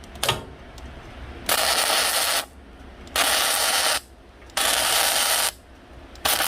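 Electric arc welding on a steel stove body: four short welds of about a second each, the arc crackling and hissing and starting and stopping sharply.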